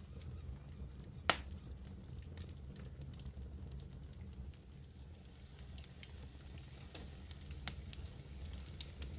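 Medium wood fire burning: a steady low roar and hiss with scattered crackles, and one loud, sharp pop just over a second in.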